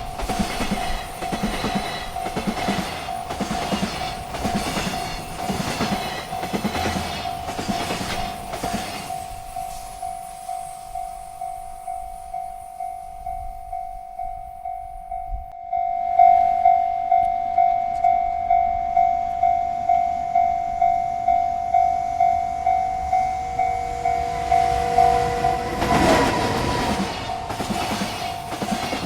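Railroad crossing bell ringing steadily, about two strokes a second, over a freight train's cars rumbling and clacking past. The train noise fades about a third of the way in, leaving the bell on its own, which grows louder about halfway. A loud burst of train noise comes back near the end.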